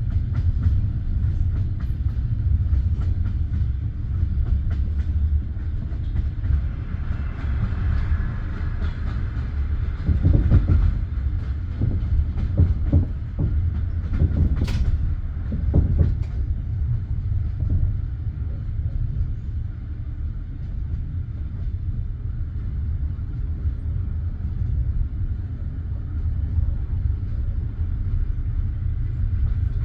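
Passenger train carriage rolling along the track: a steady low rumble of wheels on rails, with a run of clacks over the rail joints between about ten and sixteen seconds in, one of them a sharp click.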